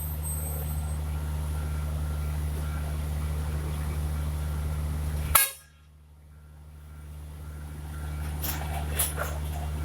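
Heavy diesel engine running steadily with a low hum. A sharp click comes about five seconds in; the sound then drops away almost to nothing and swells back over the next few seconds, and a smaller click follows near the end.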